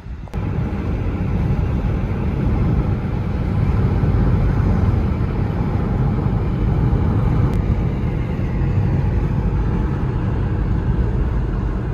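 BMW 320i accelerating hard. The engine, wind and tyre noise grow louder over the first few seconds, then hold steady at speed.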